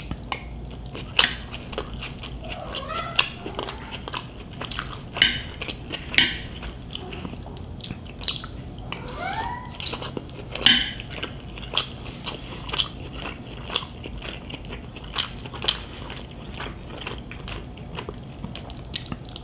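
Close-up chewing and crunching of crispy deep-fried pork. Sharp crackles come at irregular moments throughout.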